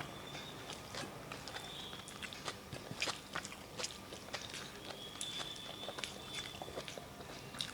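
Close-miked eating sounds: crisp bites, chewing and small clicks of hand and plate, scattered irregularly. A faint steady high tone is heard briefly about 2 s in and again from about 5 to 7 s.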